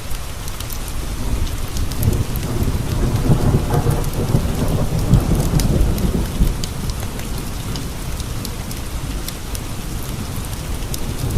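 Steady rain with a low roll of thunder that swells a couple of seconds in and fades by about seven seconds. Scattered sharp ticks run through it.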